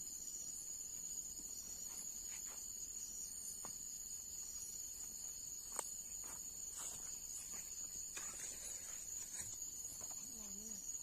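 Insects shrilling in one steady high-pitched chorus, with a few faint clicks and one sharper click about six seconds in.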